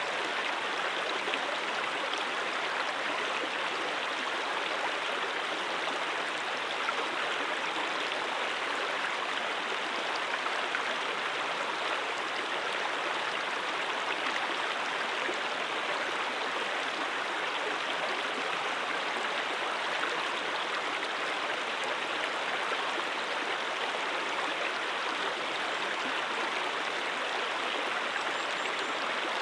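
Mountain stream flowing over rocks: a steady, even rushing and babbling of water.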